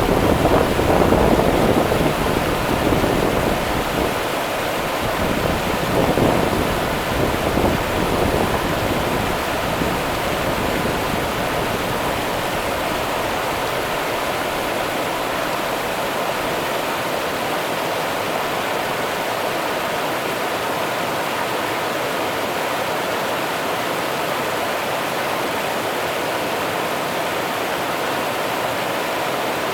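The Rio Grande's water rushing steadily, an even hiss of flowing river. A gusty low rumble sits over it for the first eight seconds or so, then fades.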